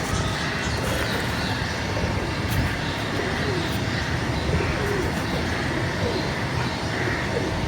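Pigeons cooing in short, low calls that bend up and down, heard repeatedly over a steady low rumble of vehicle noise.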